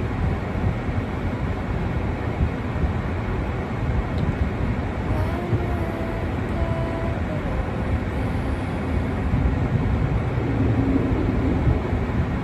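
Steady low rumbling outdoor noise, with a faint pitched sound from about five to eight seconds in.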